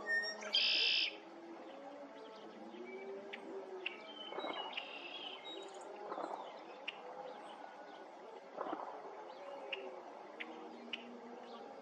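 Red-winged blackbird singing: a loud buzzy trill about half a second in and a fainter one around five seconds, over a steady background of many other birds calling.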